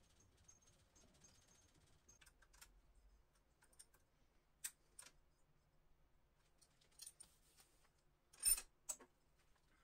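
Scattered light clicks and taps in a quiet room, with a short, louder clatter about two thirds of the way through that is followed by a single tick.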